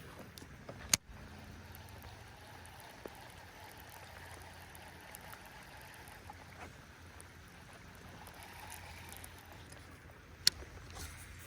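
Steady rain falling on a pond and a jon boat, with two sharp taps, one about a second in and one near the end.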